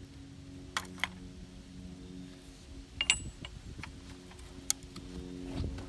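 A few sharp clicks and knocks at irregular spacing, one near the start, a pair about three seconds in and one near the end, over a steady low hum.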